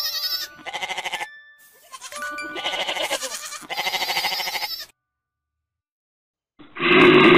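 Young goat bleating: several quavering bleats, the longer ones about two and three seconds in. After a short silence, a loud deep bear roar starts near the end.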